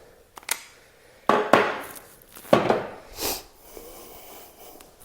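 Handling noise: about five sharp knocks and clatters of hard objects being picked up and set down, the loudest in the middle.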